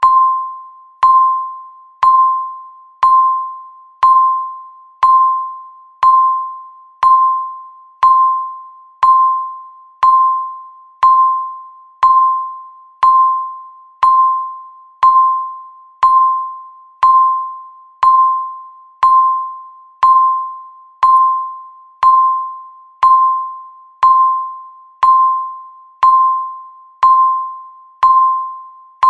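Countdown timer's tick sound: a short, bell-like ping with a clear single tone, struck once a second and fading out before the next, each tick marking one second counted down.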